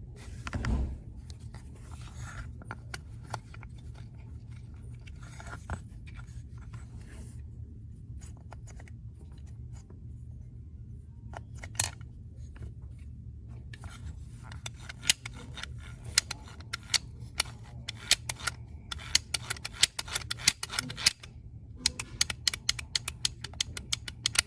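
Many sharp clicks and snips of small hard parts being handled, scattered at first and coming thick and fast from about halfway in, over a steady low hum.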